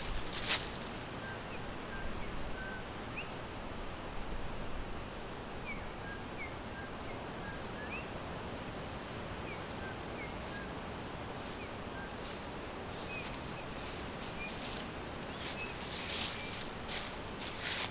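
Forest ambience: a steady background hiss with faint, scattered short bird chirps throughout, and brief rustling crackles about half a second in and again near the end.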